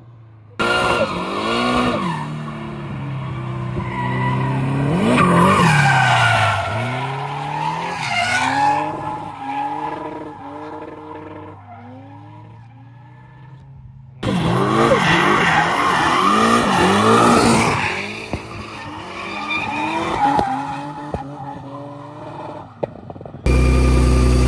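Car engine revving up and down hard while the tyres squeal and skid through drifts, in several cut-together passes. Near the end it changes to a steady engine note.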